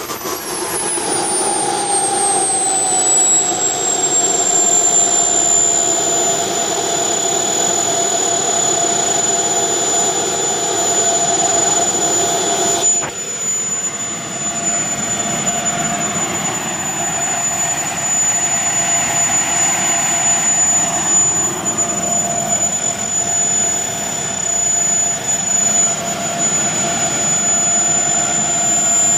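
Twin JetCentral Cheetah model turbine engines in a Skymaster F-14 RC jet running together with a high-pitched whine. The whine falls in pitch over the first few seconds as the turbines spool down, then holds steady at idle.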